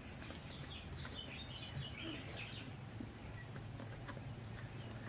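Faint twittering bird chirps for about the first three seconds, over a low steady hum.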